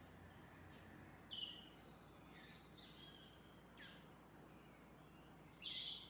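Bird calls: a handful of short chirps and quick down-slurred whistles, with two louder notes about a second and a half in and near the end, over faint background hiss.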